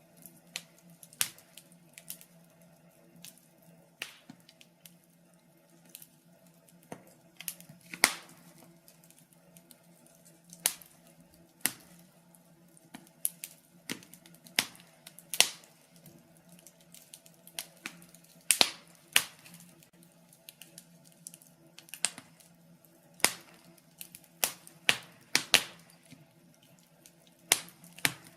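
Burning logs in a fireplace crackling: irregular sharp pops and snaps, a few every couple of seconds, some louder than others, over a faint steady low hum.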